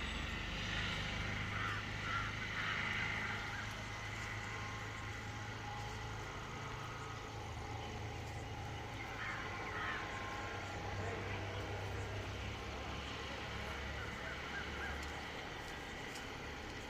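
A steady low engine-like hum, with faint, scattered higher sounds above it now and then.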